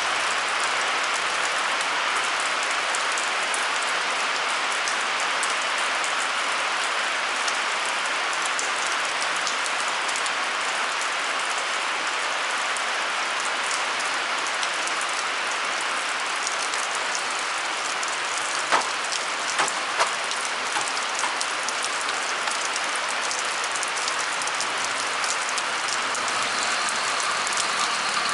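Steady rain falling on hard surfaces, a dense even hiss. A few sharp taps stand out about two-thirds of the way through.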